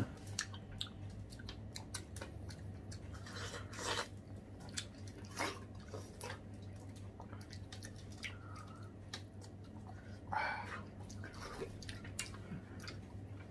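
Watermelon being bitten and chewed: wet, juicy bites and slurps of the flesh in scattered short bursts, the loudest about ten seconds in, over a steady low hum.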